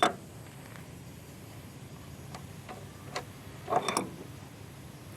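Spanners clicking and tapping on a metal air-conditioning line fitting as it is undone. One held still, the other turning: a sharp click at the start, then scattered single clicks and a short cluster about four seconds in.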